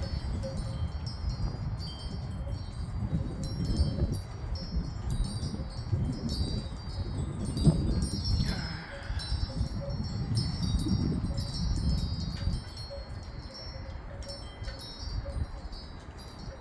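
Wind chimes tinkling continuously in gusty wind, over a low rumble of wind on the microphone that swells and eases with each gust and drops back near the end.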